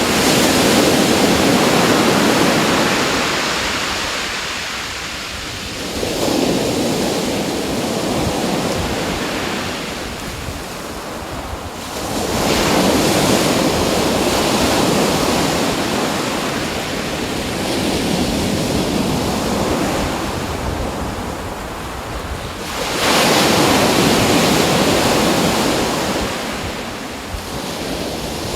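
Ocean surf: waves washing in and drawing back, a rushing noise that swells and fades in slow surges every five to six seconds.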